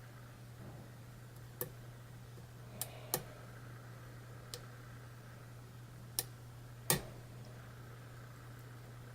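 Sharp metallic clicks of a hook pick and tension wrench working the pins of a pin-tumbler challenge lock, six clicks at irregular intervals, over a steady low hum.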